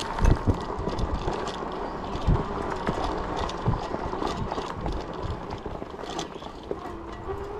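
Ecotric 20-inch folding fat-tire e-bike being ridden: steady tyre and chain noise with small rattling clicks, and a few low thumps, the loudest soon after the start.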